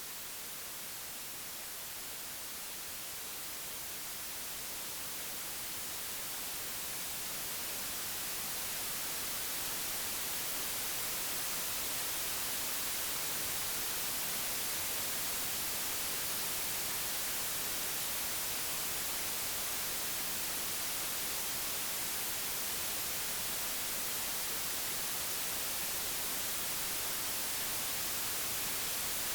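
Computer-generated white noise: a steady hiss with no tones or events, brightest in the treble, which swells a little in level over the first ten seconds or so and then holds steady.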